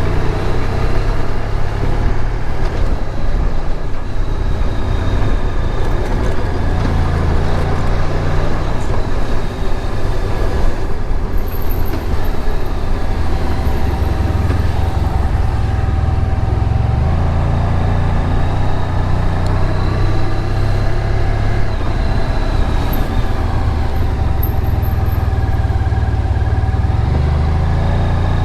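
Honda VFR1200X Crosstourer's V4 engine running while the motorcycle is ridden, with wind and road noise. The low engine sound swells and eases as the bike speeds up and slows down.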